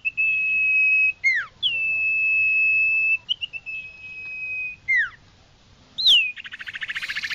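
Iora singing: long level whistles, each held for over a second, broken by short down-slurred notes. Near the end a fast rattling trill begins.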